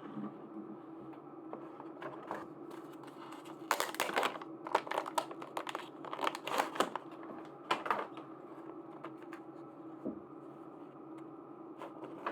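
Plastic packaging crinkling and crackling as it is handled and opened, in a busy cluster of rustles for a few seconds in the middle, with scattered small clicks before and after, over a steady low hum.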